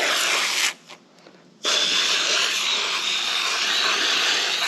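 Aerosol can of foaming coil cleaner spraying onto RV air-conditioner coils: a steady hiss that stops under a second in and starts again about a second later.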